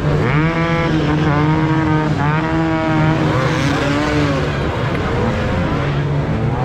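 Several motocross bike engines revving, their pitches rising and falling repeatedly over a steady low drone.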